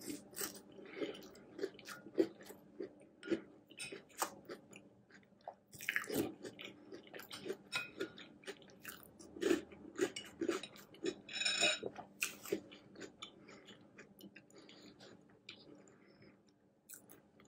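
Close-miked chewing of chocolate hot cocoa cereal in milk: a steady run of small crunches and wet mouth sounds, with a few louder bites.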